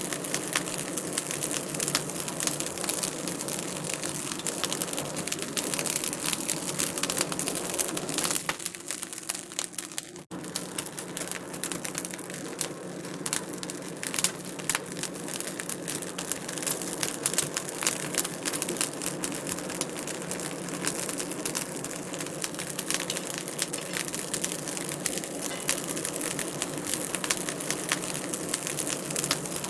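Wood fire in a fireplace crackling and popping over a steady hiss, with many small sharp snaps. The sound thins out briefly around nine seconds in, then comes back.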